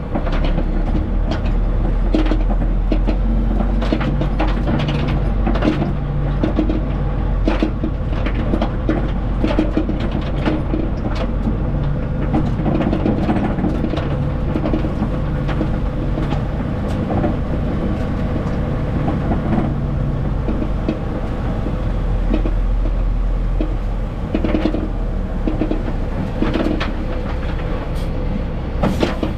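Semi truck running down the road, heard from inside the cab: a steady low engine drone whose pitch shifts a few times, with frequent rattles and clicks from the cab and trailer.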